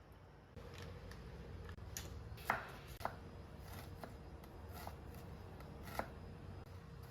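Light, irregular clicks and knocks of small hard objects being handled, with three sharper knocks about two and a half, three and six seconds in.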